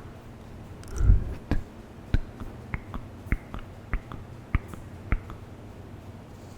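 ASMR mouth sounds close to a microphone set to very high sensitivity: a string of about nine short, sharp tongue and lip clicks, irregularly spaced, from about one second in until about five seconds in.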